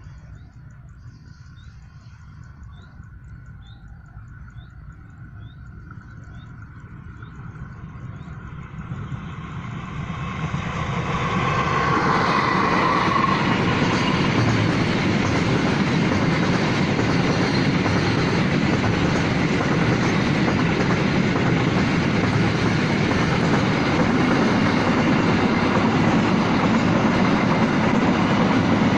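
Freight train approaching, growing steadily louder from about eight seconds in, then running past close by with the loud, steady noise of its wagons' wheels on the rails.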